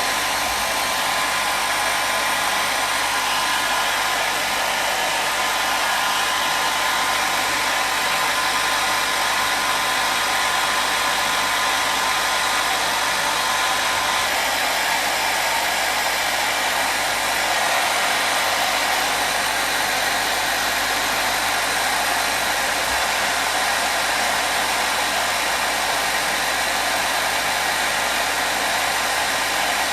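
Hair dryer running steadily, a constant rushing of blown air with a faint steady motor whine.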